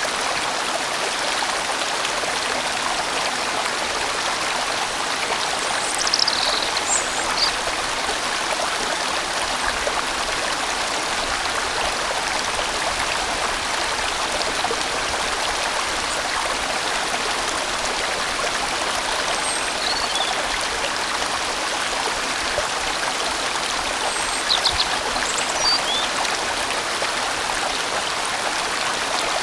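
A large, winding valley stream flowing, giving a steady, full water sound. A few short high chirps cut through it about six seconds in and again around twenty-five seconds.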